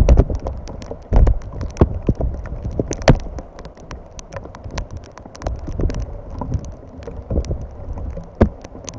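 Rain, with many irregular raindrop taps close to the microphone, and wind buffeting the microphone.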